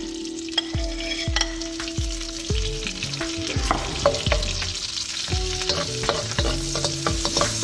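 Minced garlic, ginger and green onion sizzling in melted butter in a nonstick wok, with a steady hiss and the occasional click and scrape of a metal utensil stirring against the pan.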